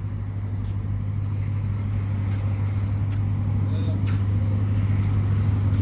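Car engine idling, a steady low rumble that grows slightly louder toward the end.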